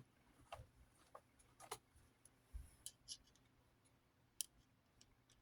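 Faint, scattered clicks and ticks, about seven of them, of a screwdriver driving screws into the plastic housing of a small box fan.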